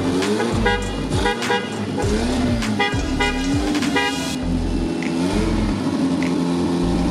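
Toyota AE86 Trueno's engine blipped in repeated revs, the pitch rising and falling about once a second, then holding a steadier note about four seconds in.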